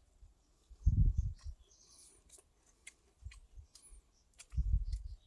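Close-up eating sounds: crisp crunching clicks of someone chewing fried grasshoppers, with two low dull thumps, one about a second in and one near the end.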